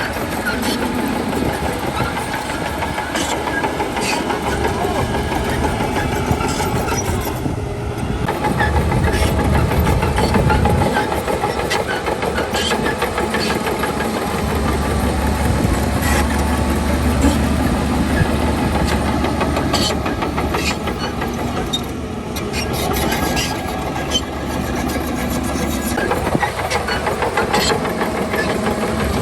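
Heavy diesel earthmoving machinery running, the engine rumble swelling and easing, with scattered metallic clanks and knocks.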